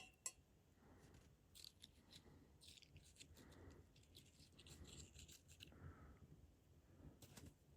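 Faint scattered clicks and short scraping, rustling strokes, like small objects being handled.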